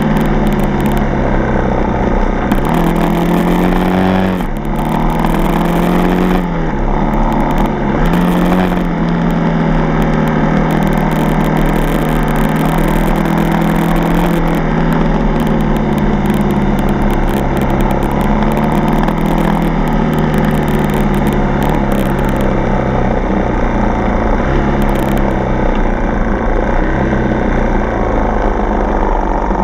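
Dirt bike's four-stroke single-cylinder engine running under way, its pitch rising and falling with the throttle: it revs up, drops back about four seconds in, climbs again near eight seconds, then holds a fairly steady pace.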